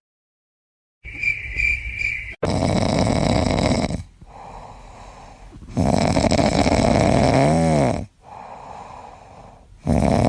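A pet snoring: long, loud, noisy breaths of about two seconds each, alternating with quieter ones. A short high squeak comes just before the first of them.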